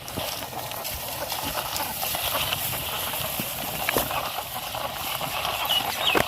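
Steady rustling and scraping as a plastic toy police car is handled among dry rice stalks, with a couple of sharp clicks and a few short chirps near the end.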